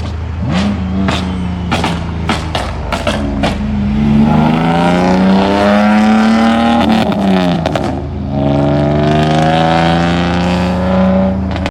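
Car engine accelerating hard: its pitch climbs steadily, drops sharply at an upshift, then climbs again. Before that, sharp clicks and knocks sound over a steady low engine hum.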